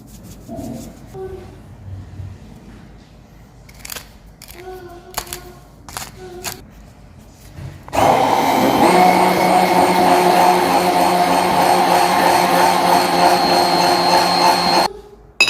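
Electric kitchen blender motor running at a steady speed for about seven seconds, switching on abruptly about halfway through and cutting off near the end. Before it come a few light clicks and knocks.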